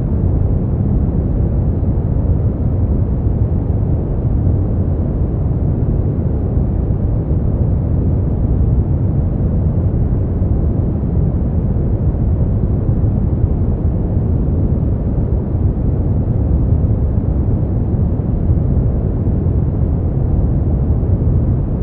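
Steady sleep-aid white noise, an unbroken even rushing with no changes. It is deep and muffled, strongest in the bass and without any high hiss.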